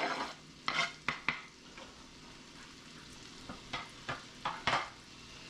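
Onions and minced garlic sizzling in butter in a pan, with a utensil scraping and stirring through them in short strokes: a cluster in the first second and a half, and another about four seconds in.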